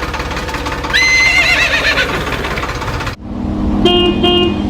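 A horse whinnies once over a rumbling engine-like noise, a wavering call that falls in pitch. About three seconds in, the sound cuts abruptly to a steady engine hum, and a vehicle horn honks twice in quick succession.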